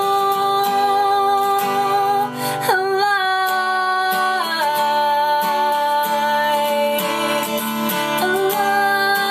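Acoustic guitar strumming under a female voice holding long sung notes without words. The voice moves to a new pitch a few times.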